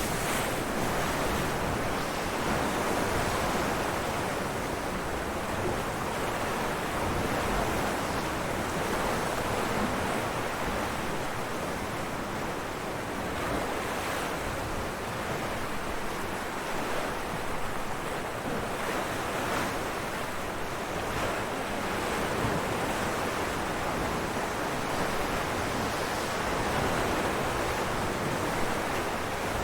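Ocean waves breaking on rocks, a continuous wash of surf that swells and eases gently without pause.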